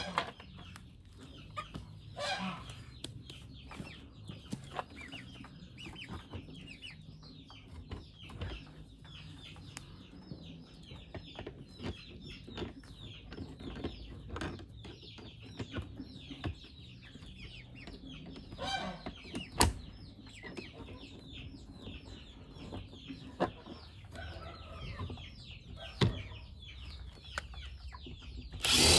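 A flock of young meat chickens clucking and peeping quietly and continually, with a few scattered knocks. A power drill starts up right at the end.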